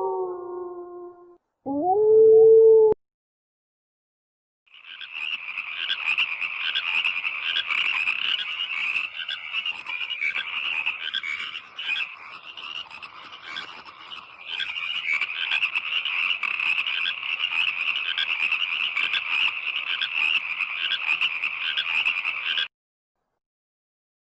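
A chorus of many frogs croaking at once, a dense pulsing din that starts about five seconds in and stops abruptly near the end. Before it, in the first three seconds, a short pitched, wavering animal call is heard.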